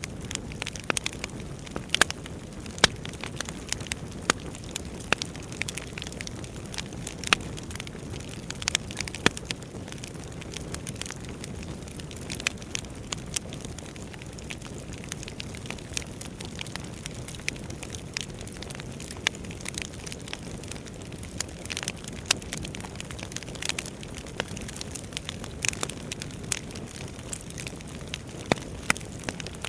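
Wood fire burning: a steady low hiss of burning logs with frequent sharp pops and snaps at irregular intervals.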